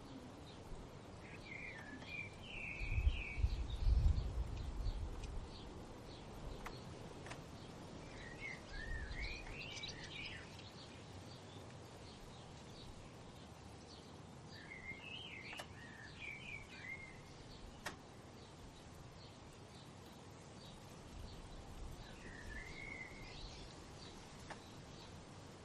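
A songbird singing short warbled phrases, four in all, spaced several seconds apart, over steady outdoor background noise with faint repeated high chips. A brief low rumble sounds about three to five seconds in.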